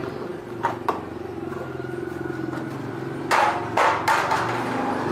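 A machine humming steadily, with a couple of light clicks about a second in and two louder clattering knocks around three and a half to four seconds in.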